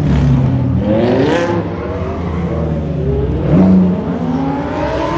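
A sports car's engine revving as it accelerates, its pitch rising in a sweep about a second in and again in a longer climb over the last couple of seconds.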